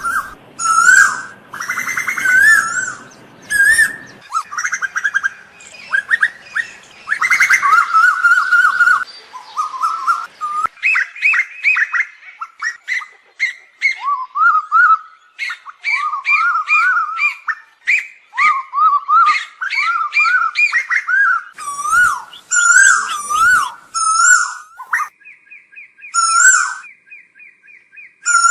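Asian koels calling over and over: loud, wavering whistled notes that overlap one another, with a fast, even run of repeated notes about three-quarters of the way through.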